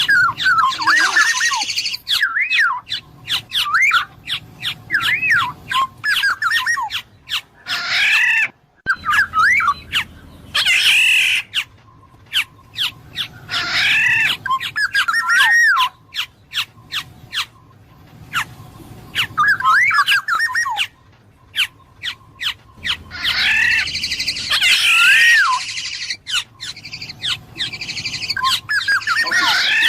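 Black-naped oriole (kepodang emas) calling repeatedly: whistled phrases that glide up and down, mixed with several harsh, raspy squawks. Many sharp clicks run between the calls.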